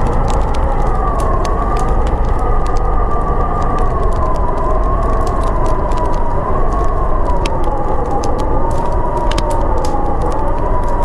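Storm wind howling, its whistling pitch slowly wavering up and down over a steady low rumble, with the scattered crackle of a fire.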